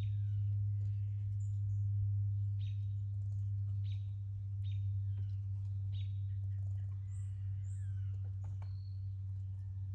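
Small birds giving short chirps and quick down-slurred calls, a few high notes near the end, over a steady low hum that is the loudest sound.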